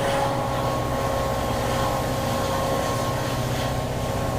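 EMD two-stroke diesel engine of a WDP-4D locomotive running with a steady low hum, with a steady high whine over it.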